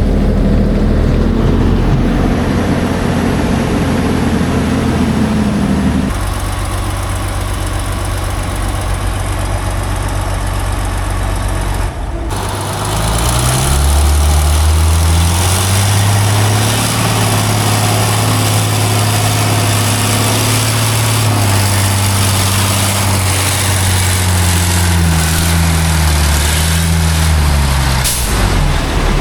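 Heavy logging truck engine running hard in deep mud, the sound changing abruptly twice as shots change; about halfway through the engine revs up and holds high revs, then its pitch drops back near the end.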